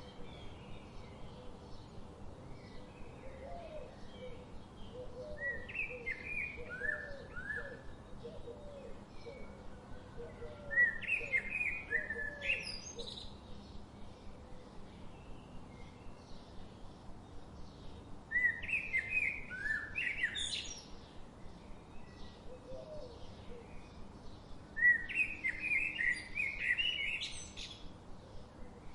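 A songbird singing a short, complex phrase four times, about every seven seconds, over a steady rushing background of river water. A softer run of short, lower notes is heard during the first half.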